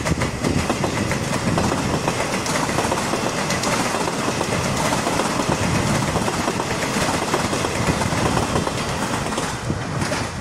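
Taiwan Railways EMU800 electric commuter train passing at close range, its wheels clattering over the rails in a steady, loud rumble.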